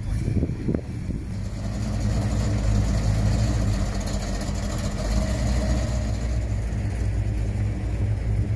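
Car engine running steadily, a low even drone that builds up over the first two seconds.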